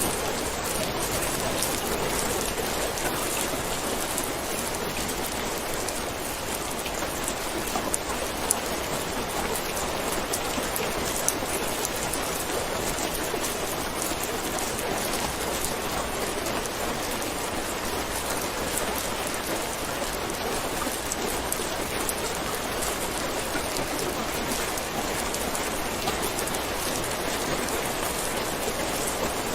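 Steady heavy rain falling on a surface, a dense even hiss with many fine drop ticks and a few sharper drop hits about 8 and 11 seconds in.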